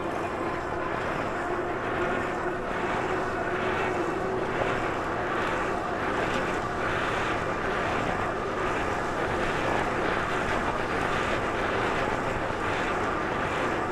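A bike in motion: steady road and wind noise, with a faint steady hum and a soft repeating swell about one and a half times a second.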